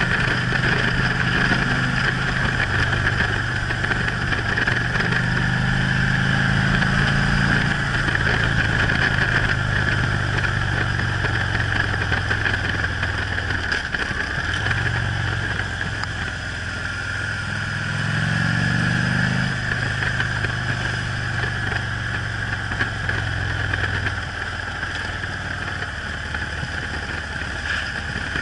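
Harley-Davidson V-twin touring motorcycle engine running under way, with steady wind rush over it. The engine note rises and falls with the throttle, drops off about halfway through, then climbs again a few seconds later.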